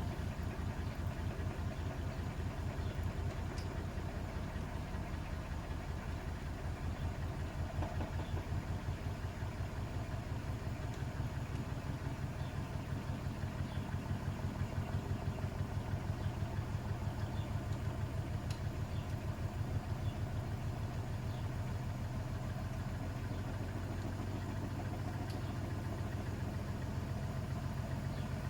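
Bosch Serie 6 WAT286V0 washing machine running: a steady low hum with a fast, even pulsing from the turning drum.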